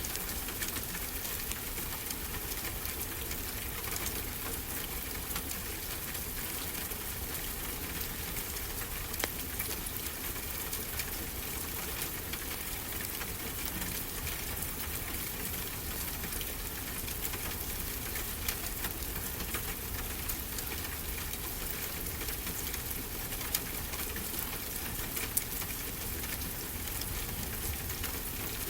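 Wood fire crackling, with sharp pops scattered through, over a steady low rush of ocean surf.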